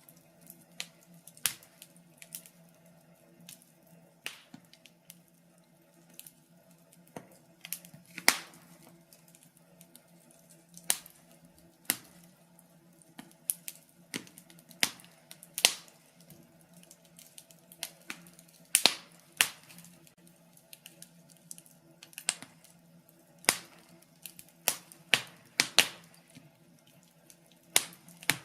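Wood fire in a fireplace crackling: irregular sharp pops and snaps, one to three every second or two, some much louder than others, over a faint low steady hum.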